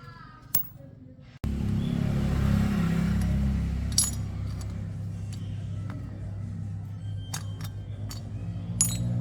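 Motorcycle engine running with a steady low hum that starts suddenly about a second and a half in, with a few sharp metallic clinks over it.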